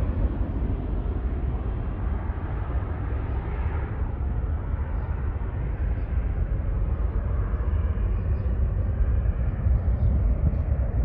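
Jet airliner climbing out after takeoff: a steady low rumble from its engines, its higher hiss slowly fading.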